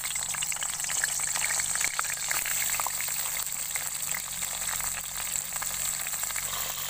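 Whole peeled pointed gourds (potol) frying in hot oil in a kadai, a steady sizzle full of fine crackles.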